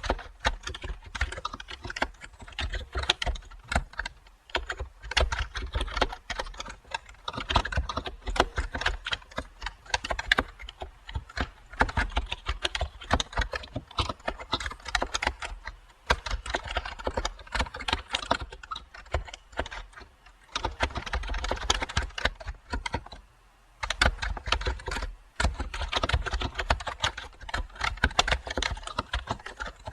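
Typing on a computer keyboard: quick runs of key clicks, with short pauses between bursts and one longer break a little past two-thirds of the way through.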